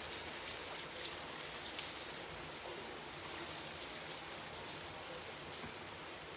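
Boneless fried chicken being bitten and chewed, with a few faint crunchy crackles over a steady background hiss.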